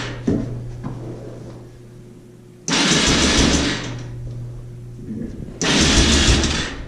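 Yamaha Raptor 660's single-cylinder engine turned over on the electric starter twice, first for about a second and a half and then for about a second, spinning easily without firing. It cranks as if it had no compression, which the mechanic puts down to the valves.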